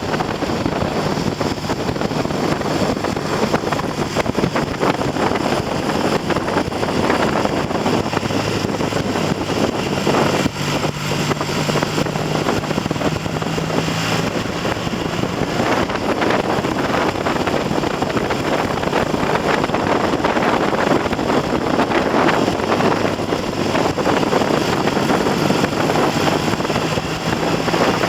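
Triumph TR6 650 cc parallel-twin engine running at light throttle on the move, mostly buried under heavy wind buffeting on the microphone. The engine hum comes through more clearly for a few seconds about a third of the way in. The engine has a fresh top end and is being run in at mid revs.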